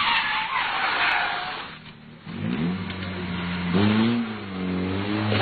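Rally car engine revving: a broad rushing noise fades out about two seconds in, then the engine climbs in pitch and holds steady, with a short rise and fall of revs near the middle.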